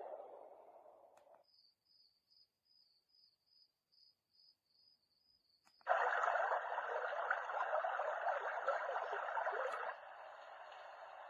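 Portable white noise machine playing steady noise that fades out over the first second or so; after a few seconds of near silence with a faint, high, pulsing beep, a brighter noise sound starts abruptly and then drops in level near the end.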